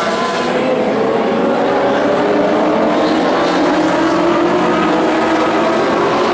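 A pack of dwarf race cars, small motorcycle-engined racers, running hard together. Several engine pitches overlap and rise and fall as the cars go by.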